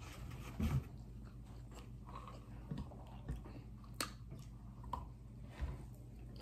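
A person chewing mouthfuls of hand-eaten rice, with soft mouth clicks and ticks scattered through it and one sharper tick about two-thirds of the way in.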